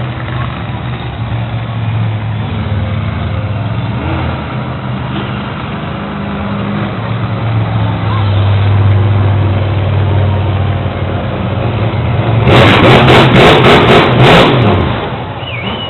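Monster truck engine running and revving, growing louder about halfway through. Near the end comes a run of very loud, sharp cracks lasting about two seconds.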